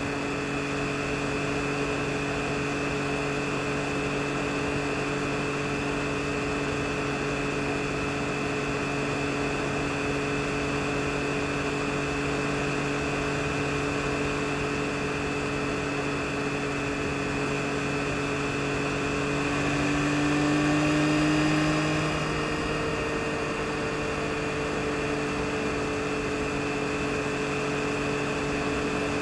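2022 Yamaha MT-09 SP's three-cylinder engine running at a steady pitch over a haze of wind and road noise, as at a constant cruising speed. About twenty seconds in, the engine note swells and rises slightly for a couple of seconds, then settles back.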